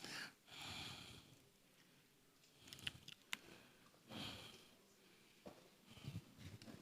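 Near silence: room tone with two faint breathy swells and a few small clicks.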